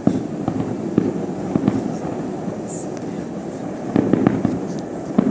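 Fireworks bursting in a far-off display, a string of bangs and crackles with a dense run of reports about four seconds in, over a steady background hum.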